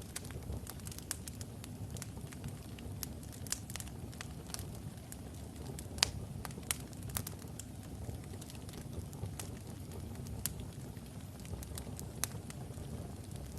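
Wood logs burning in a fireplace: a steady low rumble of the flames with irregular sharp crackles and pops, the loudest pop about six seconds in.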